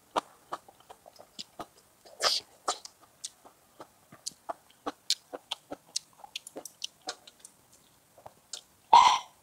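Close-miked chewing and mouth sounds of a person eating hot pot: a scatter of short clicks, a short louder burst about two seconds in, and a louder one, the loudest of all, near the end.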